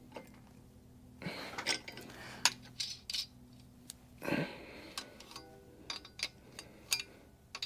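Light metallic clinks and taps with brief scraping: metal engine parts and tools being handled and fitted, an oil pump pickup and its bracket being offered up into place.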